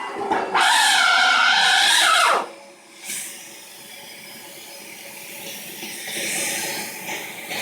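Dyson DC17 upright vacuum cleaner giving a loud, wavering high-pitched scream for about two seconds, which falls in pitch and dies away, leaving the machine running more quietly before the noise builds again near the end. The scream comes from a failing brushbar motor; a new belt and a new brush bar had not cured it.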